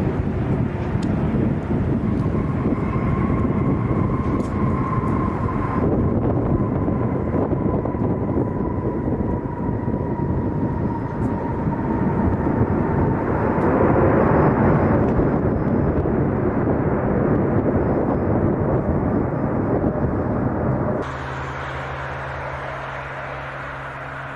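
Large jet airliner's engines passing close by: a loud roar with a thin whine that slowly falls in pitch. About 21 s in, it cuts abruptly to a quieter, steady low hum.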